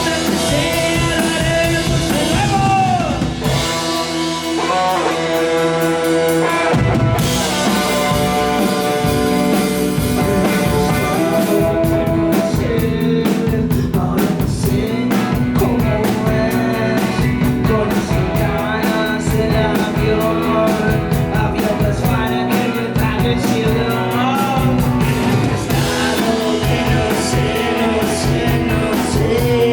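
Live rock band playing with drums and a singer. The bass and drums drop out for a few seconds near the start, then the full band comes back in.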